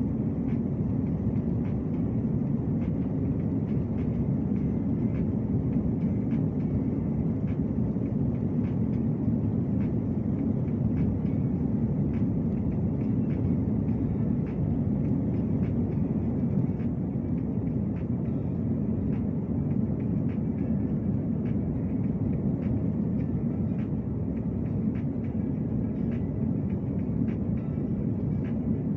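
Steady low rumble of an airliner, with faint ticks about once a second.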